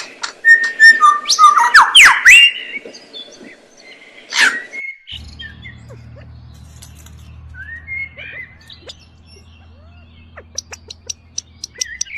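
Small birds chirping and whistling. Loud, sharp chirps and sliding whistled notes come first. About five seconds in, quieter chirps follow over a low steady hum, and near the end there is a fast run of short, high ticking notes, about four a second.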